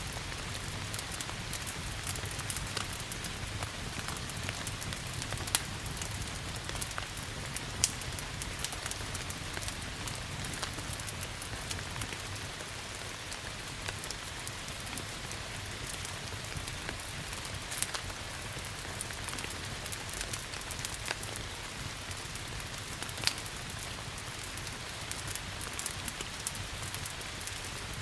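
Steady rain hissing, mixed with a crackling wood fire whose pops and snaps come at irregular moments, a few sharper ones standing out.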